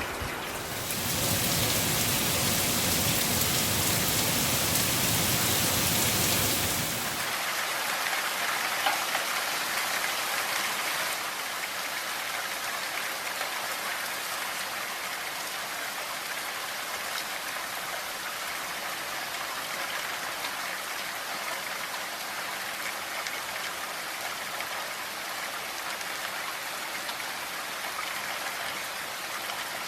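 Rain falling steadily. It is heavier and fuller for about the first seven seconds, then settles to a lighter, thinner patter.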